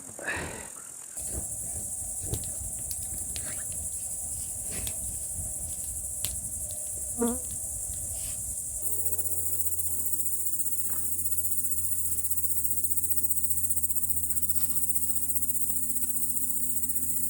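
Steady high-pitched chirring of an evening insect chorus. A steady low hum joins about halfway through.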